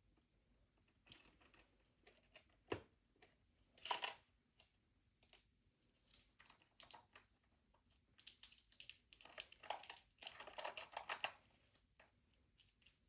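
Faint clicking and tapping of small plastic miniature toy pieces being handled, with a louder knock about four seconds in and a quick run of clicks near the end.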